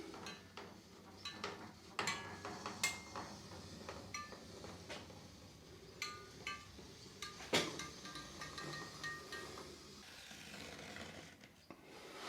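Scattered clicks, light knocks and short squeaks of a silicone caulking gun being worked while sealing around a door frame and edges; the sharpest click comes about seven and a half seconds in.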